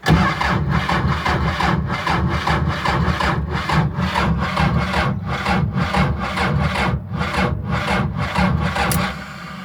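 Electric reduction starter (Magneton 2.7 kW) cranking the T-40 tractor's diesel engine in a steady rhythmic churn for about nine seconds, then stopping; the engine does not catch, the battery being run down after the winter.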